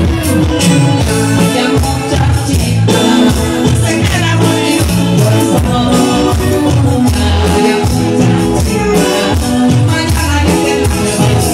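Live band playing Latin American music, loud and steady, with a moving bass line under the other instruments.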